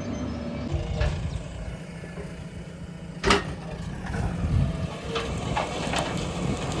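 Diesel engine of a JCB excavator running steadily, with a sharp knock about three seconds in and a few lighter clanks after it.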